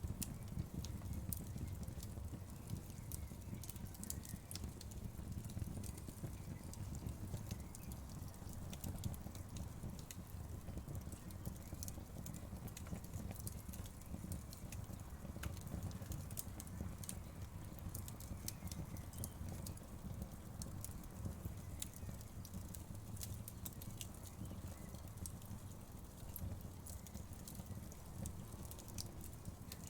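Wood fire crackling, with many small sharp pops and snaps scattered irregularly over a low, steady rumble of the burning.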